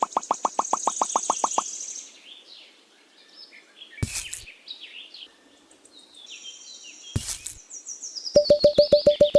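Small birds chirping and trilling in short high calls, with a fast run of rapid repeated pulses at the start and again near the end, and two sharp knocks in between.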